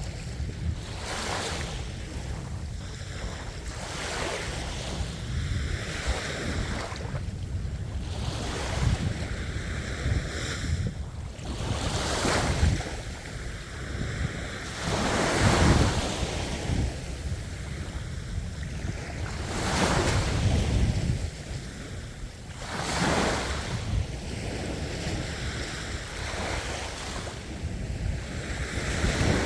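Ocean surf: waves breaking and washing in, the sound swelling and falling back several times, the loudest surge about midway, over a low rumble of wind on the microphone.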